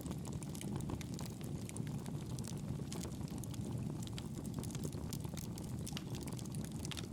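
Campfire crackling: a steady low rumble of burning with many small sharp pops and snaps scattered throughout.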